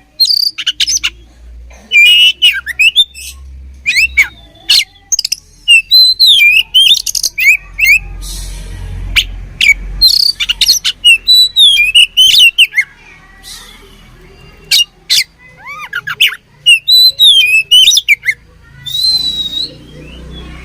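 Oriental magpie-robin (kacer) singing in rapid, loud bursts of sharp chirps and gliding whistled notes, mixed with a few harsh rasping calls.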